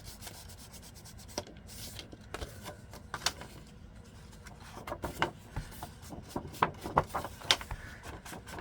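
Soft scattered taps and rubbing on paper, more frequent in the second half, as ink is dabbed and rubbed onto the exterior of a handmade journal.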